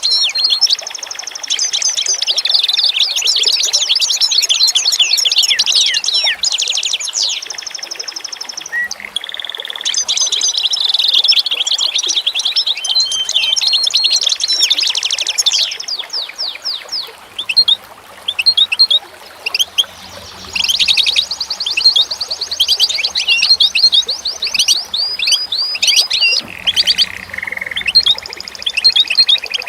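Birdsong: several birds singing at once, with fast trills and runs of quick chirps mixed with held whistled notes, thinning to scattered chirps about halfway through.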